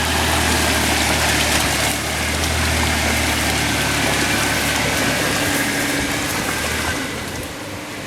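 Off-road SUV engine running steadily under load while wading through deep water and mud, with water splashing and sloshing around it. The engine note and the splashing ease off about seven seconds in.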